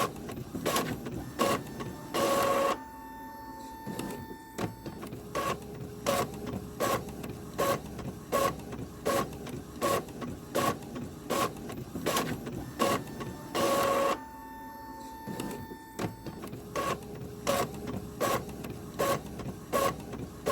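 Printer working paper through: sharp mechanical clacks at a steady pace, about every two-thirds of a second. Twice, about two seconds in and again near the middle, a louder whirring burst lasts under a second and is followed by a faint steady tone.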